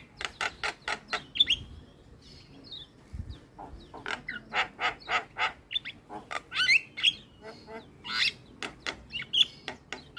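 Javan myna calling: runs of rapid harsh chattering notes, about five a second, mixed with short whistles that glide up and down, with a brief lull in the second and third seconds.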